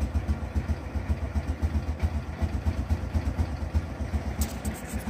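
Honda Innova 125's small single-cylinder four-stroke engine idling steadily, with a few light clicks near the end.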